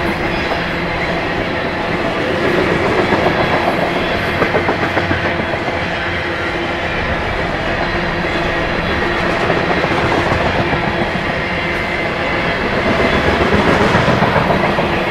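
Freight train of tank cars rolling past close by, steel wheels running over the rails in a dense, steady rumble. A rhythmic pulsing swells louder about three seconds in and again near the end.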